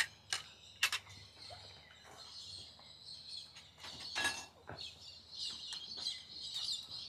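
Birds chirping faintly in the background, with a few light clicks in the first second like metal utensils being handled.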